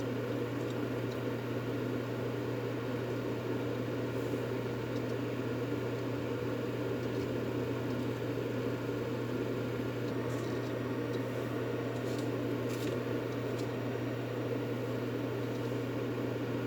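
Steady, unchanging droning hum with a dense hiss over a low tone, played as white noise to soothe a baby to sleep. A few faint clicks come about two-thirds of the way through.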